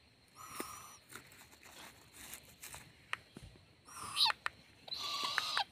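Young owl giving raspy, hissing screech calls three times, the last one the longest, with a few sharp clicks in between.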